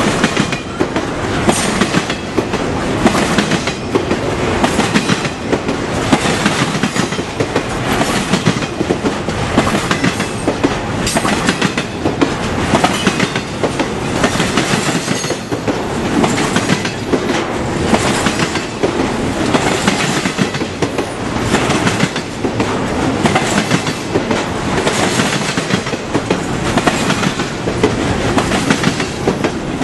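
A train's cars rolling past at close range, a steady rush of wheels on rail with repeated clickety-clack as the wheels cross rail joints.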